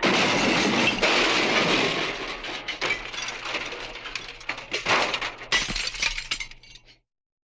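Car crash sound effect: glass breaking and debris crunching. It is loudest at the start and tapers into scattered clinks and clicks, then cuts off abruptly about seven seconds in.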